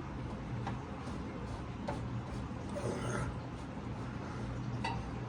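A few faint clicks and a brief scrape from a wrench being worked on the crankshaft pulley bolt of a seized 1963 Thunderbird engine, rocking it back and forth to try to free it, over a steady low hum.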